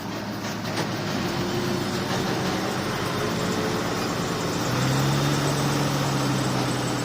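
Heavy diesel engine of earthmoving machinery running steadily, its note growing stronger about five seconds in.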